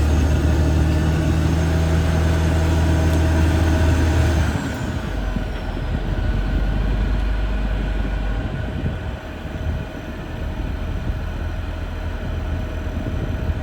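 Caterpillar D6R XL bulldozer's diesel engine running loud and steady, then dropping back about four and a half seconds in with a high whine falling in pitch, and running on more quietly.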